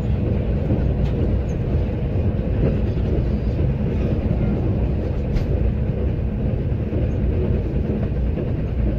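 Passenger train running along the line, heard from inside the coach: a steady low rumble of wheels and running gear on the rails, with a couple of faint clicks.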